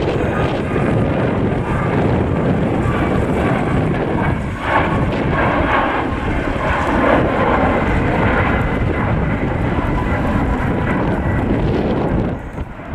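Boeing 737 MAX 8's CFM LEAP-1B turbofan engines running at takeoff thrust, a loud steady jet roar with faint whining tones, briefly dropping near the end.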